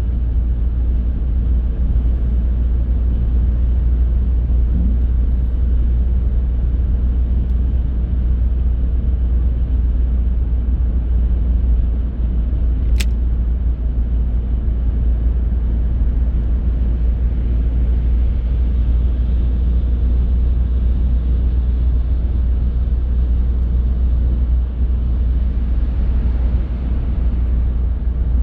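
Car driving at steady speed: continuous low road and engine rumble as picked up by a dashcam, with one sharp click about halfway through.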